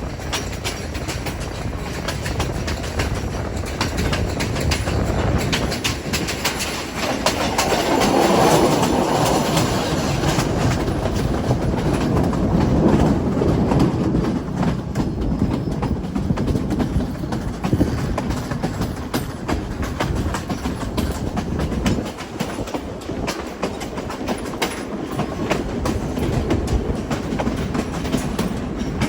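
Passenger train running along the track: a steady rumble with wheels clicking over the rail joints. The rumble swells about a quarter of the way in and eases again before the middle.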